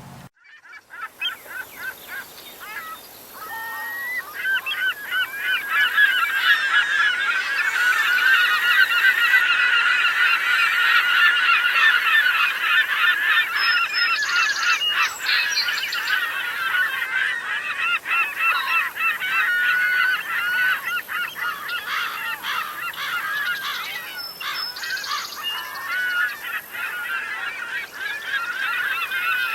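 A large flock of birds calling all at once, a dense chorus of many overlapping calls that builds up over the first several seconds and then carries on steadily.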